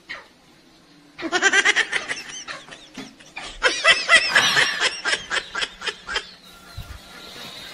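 A man laughing loudly in a quick, rhythmic cackle, in two bouts with a short break between them.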